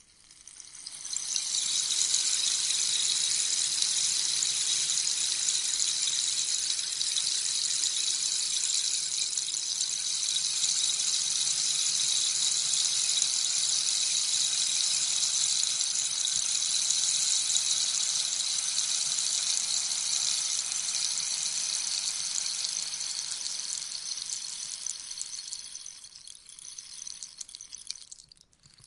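Rainstick turned over, its beads trickling down inside in a steady rain-like hiss that swells up over the first couple of seconds, holds, and thins out to nearly nothing near the end as the last beads settle.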